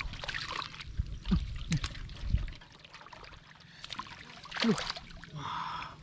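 Shallow muddy water splashing and sloshing in short irregular bursts, with a few sharp plops, as hands and feet work through a flooded rice field.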